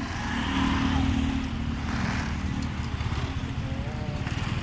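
A vehicle engine running at low speed, a steady low rumble, with wind buffeting the microphone.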